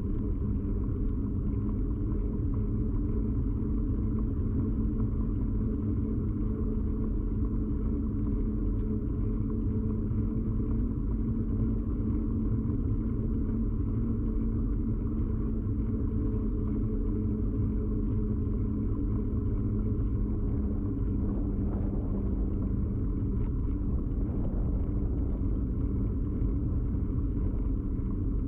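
Steady low rumble of a bicycle ride picked up by a camera clamped to the bike: tyre-on-road and frame vibration carried straight into the camera, with a steady low hum under it.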